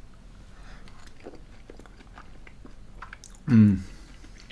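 Faint chewing and small clicks as a mouthful of French onion soup with gratinéed Gruyère and crisp croutons is eaten, then a short, loud appreciative 'mmm' with a falling pitch about three and a half seconds in.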